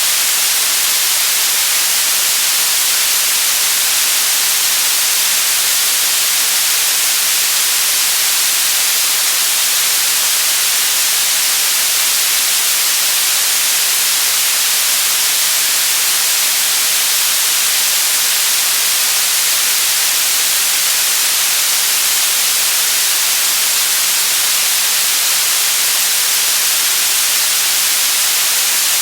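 Synthetic white noise: a steady, even hiss, heaviest in the high frequencies, that never changes in level.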